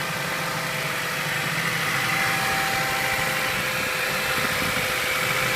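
2008 Ford Fusion 2.3-litre four-cylinder engine idling steadily, with a constant whine over the running; a good runner.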